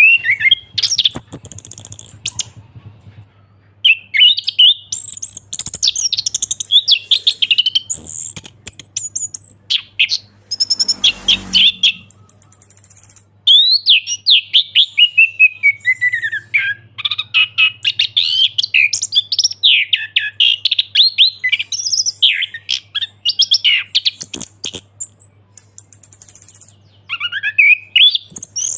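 Orange-headed thrush singing a long, varied song of rapid whistled and chattering phrases with short pauses between them. About eleven seconds in, a brief harsher, buzzier call cuts in.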